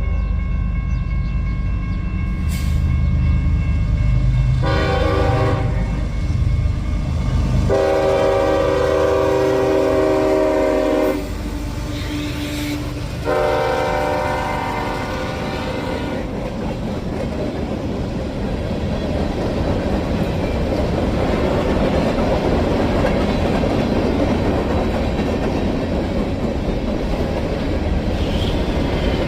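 A freight locomotive's horn sounds in three long blasts, the middle one the longest, over the rumble of the approaching diesel engines. Then the grain train's cars roll by with steady wheel clatter on the rails.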